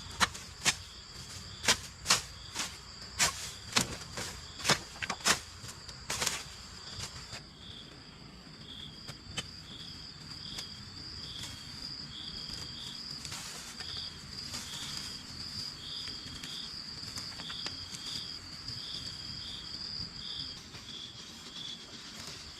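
A run of sharp knocks, about two a second, for the first six seconds or so. Then steady insect song: a continuous high buzz with a pulsing chirp below it, typical of crickets.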